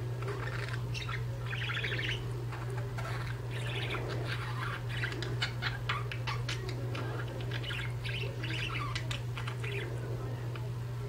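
Budgerigars chattering: a busy stream of short chirps, warbles and clicks, over a steady low hum.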